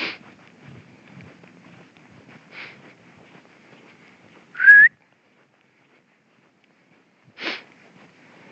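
A person whistling one short, rising note just over halfway through, the loudest sound here. A few soft, brief rustling bursts of movement come before and after it.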